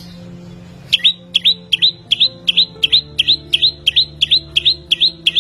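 Samyong songbird calling: a fast, very regular series of short rising chirps, about three or four a second, starting about a second in.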